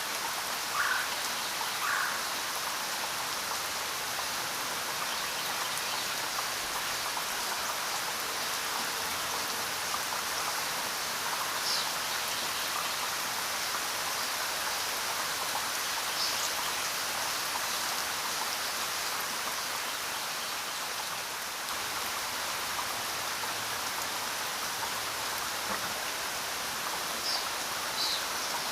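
Steady rainfall, an even hiss, with a few brief sharper sounds standing out here and there.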